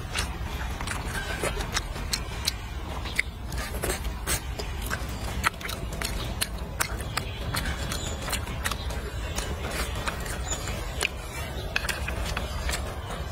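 Close-up eating sounds: chewing and wet mouth clicks, with scattered sharp clicks, over a steady low rumble.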